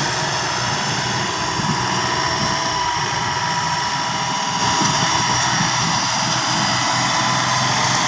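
John Deere 5310 tractor's diesel engine running steadily, with a thin, high, even whine over the engine noise.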